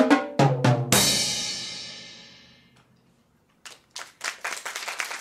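Drum kit playing the closing bars of a piece over pitched backing music, ending about a second in on one loud crashing hit that rings out and fades away. After a short pause, an audience breaks into applause.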